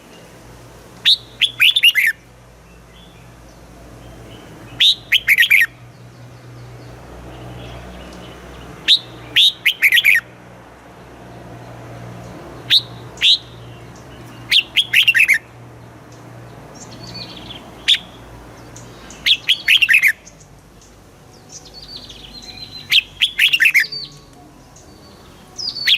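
Red-whiskered bulbul singing: short bright phrases of quick falling notes, one every three or four seconds, with a faint low hum underneath.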